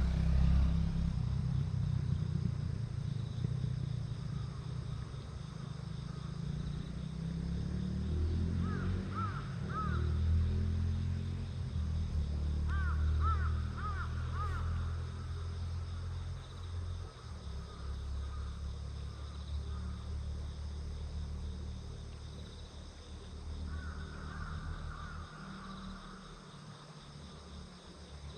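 Crows cawing in two short runs of several caws, over a steady low rumbling noise.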